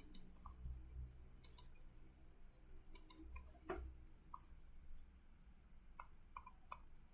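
Near silence with about a dozen faint, scattered clicks over a low hum.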